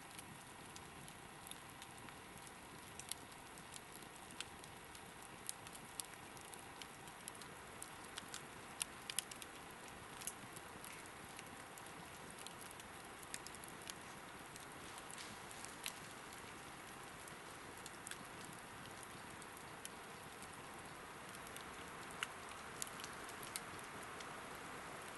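Log campfire burning with a faint steady hiss and scattered soft crackles and pops.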